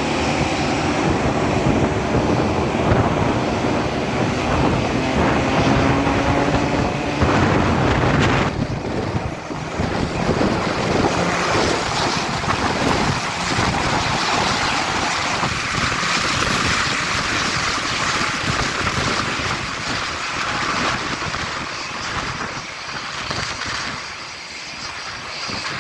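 Propeller aircraft engines at takeoff power, a steady drone with a rising tone for the first eight seconds or so, after which a loud wind rush takes over, the engine tone still underneath.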